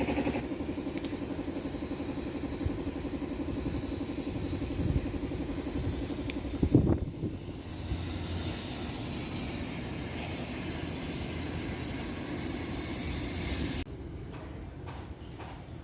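Steady hissing that cuts off abruptly near the end, with a single knock about seven seconds in.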